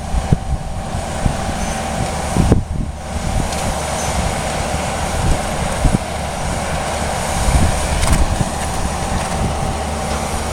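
Steady rumbling of a running vehicle, with a faint steady hum over it and a brief dip in the sound a few seconds in.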